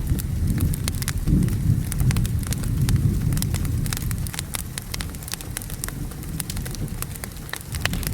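Wood fire crackling, with frequent sharp pops and snaps at irregular intervals, over a low rolling rumble of thunder and rain that swells and eases.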